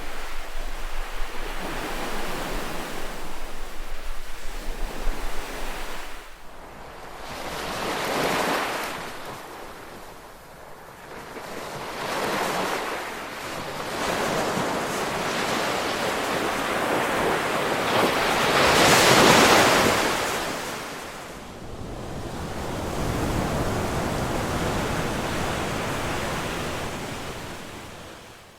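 Ocean waves breaking and washing up on shore, the surf swelling and falling back every few seconds, with the biggest surge about two-thirds of the way through.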